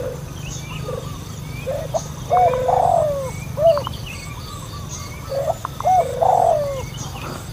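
Wild birds calling: short arched call notes repeated in groups, with warbling trills and fainter higher chirps, over a low steady hum.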